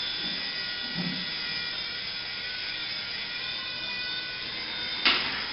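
Small toy remote-control helicopter's electric motor and rotor whining steadily while it flies, its pitch wavering slightly. A single sharp knock comes near the end.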